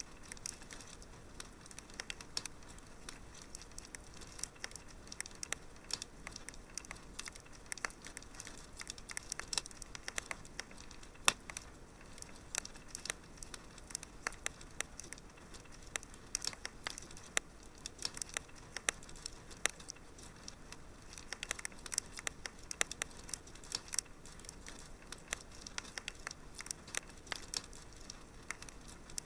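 Wood fire crackling in a fireplace: a low steady hiss with many irregular sharp pops and snaps, one louder snap about eleven seconds in.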